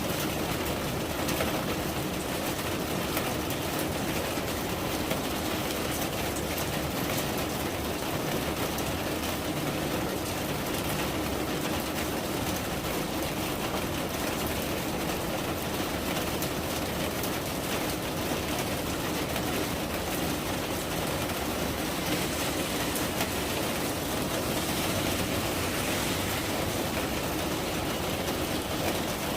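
Steady rain falling: an even hiss with fine pattering.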